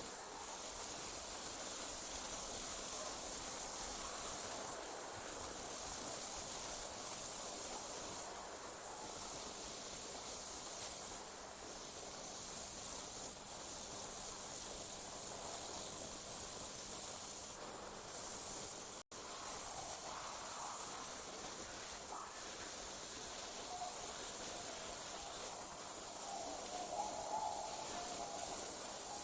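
Night insect chorus: a continuous high-pitched trill with brief pauses every few seconds.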